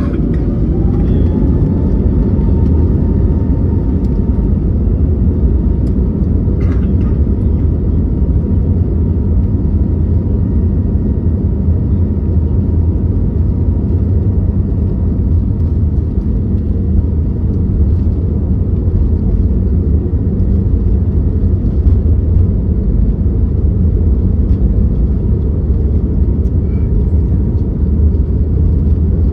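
Airbus A321neo cabin noise from a window seat: a steady, loud low rumble of the engines and airflow, with a faint steady whine above it.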